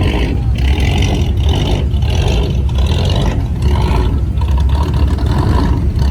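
Car engines running, a loud low steady rumble.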